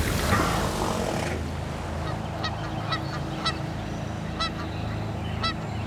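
A brief rush of noise, then a series of short pitched animal calls, about one or two a second, over a steady low hum.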